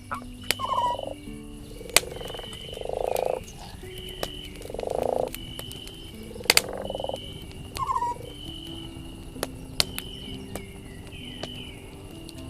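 Wood fire crackling with sharp, scattered pops, while frogs give about five short, pulsing croaks. A short high chirp repeats about once a second underneath.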